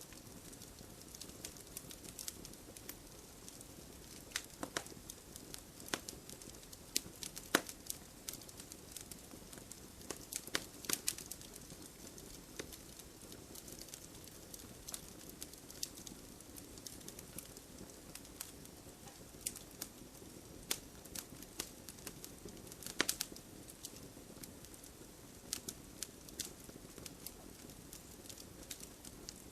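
Log fire crackling: irregular sharp pops and snaps of burning wood over a steady low hiss of the flames, with a few louder pops scattered through.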